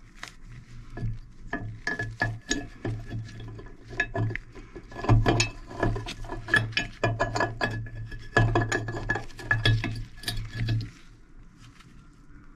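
Metal tools and faucet fittings clicking and clinking as they are worked by hand, in quick irregular runs that grow busier about halfway and stop shortly before the end.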